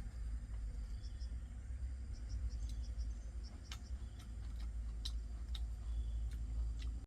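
Outdoor ambience: a steady low rumble with short high chirps and a few sharp clicks scattered through it.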